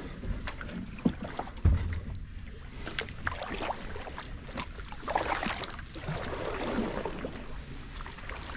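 A kayak being paddled in swamp water: paddle splashes with scattered knocks and clicks against the hull, a heavy thump a little under two seconds in, and a longer swishing splash about five seconds in.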